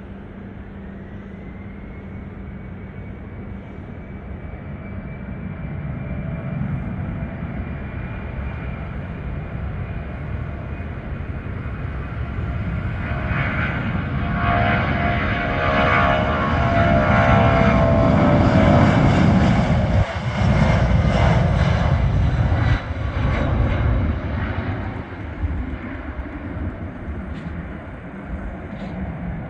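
Boeing 757-200 freighter's twin Pratt & Whitney PW2040 turbofans at takeoff power, with a high whine at first. The sound grows steadily louder as the jet rolls and passes, becomes a rasping rumble at its loudest about two-thirds of the way through, then fades as it climbs away.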